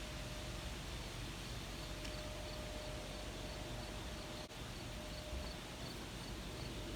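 Steady outdoor background noise with a faint insect chirping in an even rhythm, a few chirps a second, and a faint steady hum that comes and goes. The sound drops out for an instant about halfway through.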